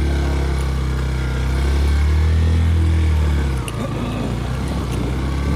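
Yamaha FZ V2 motorcycle's single-cylinder engine running steadily under load on an uphill climb. Its note drops off about three and a half seconds in as the throttle eases.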